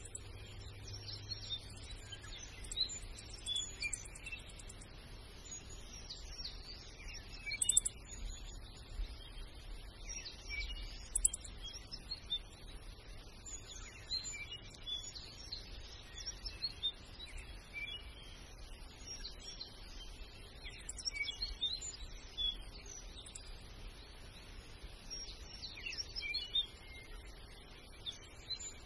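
Small birds chirping with many short, scattered calls over a low background rumble, with a couple of sharp clicks about eight and eleven seconds in.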